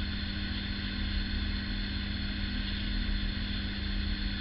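Steady electrical hum with an even hiss over it: background room noise, with no separate razor strokes heard.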